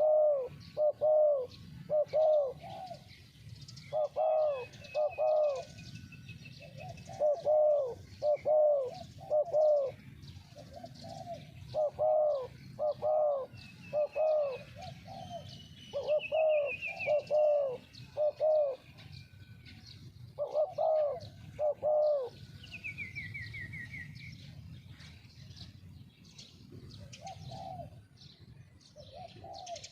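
Spotted doves cooing in repeated phrases of two or three soft notes, which stop about 22 s in and come back faintly near the end. Small birds chirp thinly above them, with a short falling trill just after the cooing stops.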